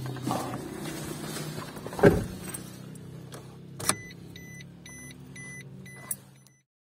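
Suzuki Wagon R engine idling, heard from inside the cabin, with a heavy thump about two seconds in. From about four seconds in the turn-signal relay ticks in an even tick-tock rhythm.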